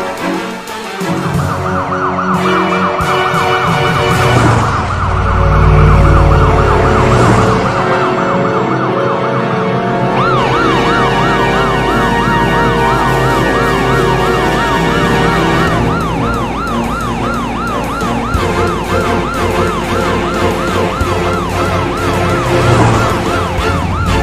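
Police siren wailing in a fast up-and-down yelp, about two to three swings a second, with a low rumble underneath.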